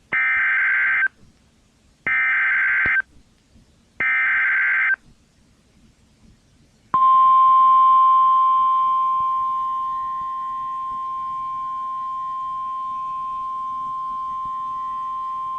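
NOAA Weather Radio emergency alert: three one-second bursts of warbling SAME data tones, about a second apart, then the steady 1050 Hz warning alarm tone from about seven seconds in, easing down in level over its first few seconds. Together they signal that a warning broadcast follows.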